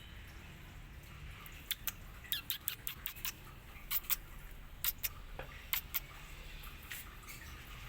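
Cat and kittens eating: an irregular run of sharp, wet clicks and smacks of chewing and lapping, starting after a couple of seconds and stopping shortly before the end, over a faint low hum.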